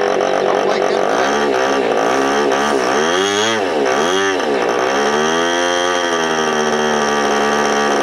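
OS .46AX two-stroke nitro glow engine turning its propeller, revved up and down several times in quick swings, then easing back to a steady speed for the last few seconds.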